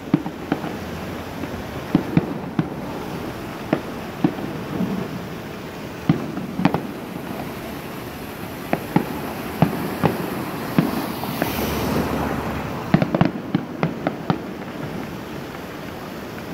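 Aerial fireworks going off: sharp bangs at irregular intervals over a steady rumbling background, with a quick run of bangs about thirteen seconds in.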